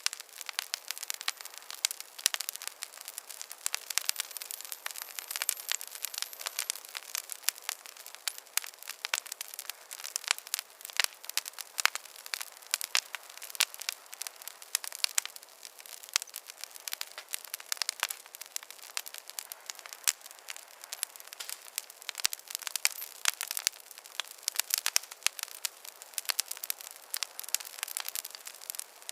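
Wood campfire crackling: a dense, irregular stream of sharp pops and snaps, bright and thin with no low rumble.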